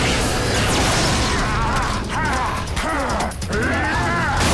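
Sci-fi action sound effects with a mechanical, whirring quality and several warbling pitch sweeps, over a dense noisy wash.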